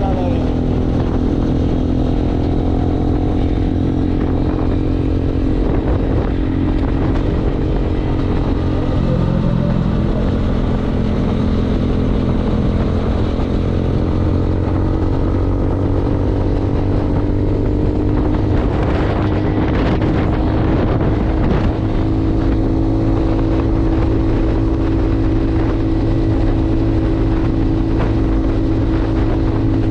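Motorcycle engine running steadily under way, its pitch shifting slowly up and down with speed. A rougher, noisier stretch comes about two-thirds of the way through.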